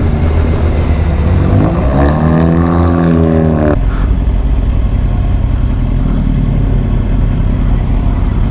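Vehicle engine noise: a steady low rumble throughout, with a pitched engine note that swells and falls from about two seconds in and cuts off suddenly just before the four-second mark.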